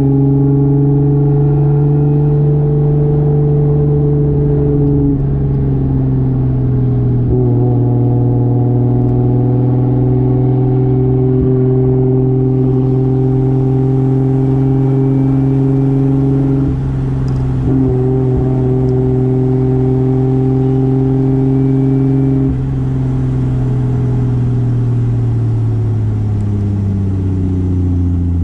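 1995 Toyota Soarer's turbocharged 2JZ straight-six running at a steady engine speed while driving, with a brief dip about seventeen seconds in. Over the last five seconds the revs fall steadily as the car slows.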